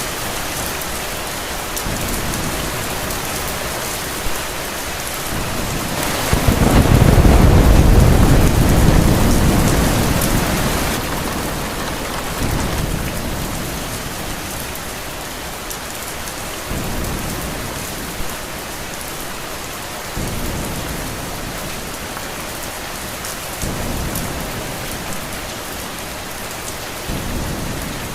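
Steady rain with a roll of thunder that swells about six seconds in, is loudest a second or two later, then rumbles away over the next few seconds.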